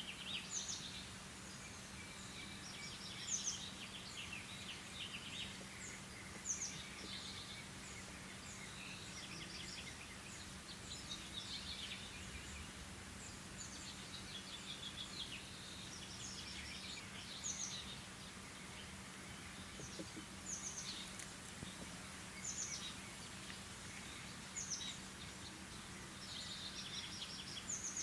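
Small songbirds chirping and trilling outdoors, short calls repeating every second or two, over a faint steady low hum.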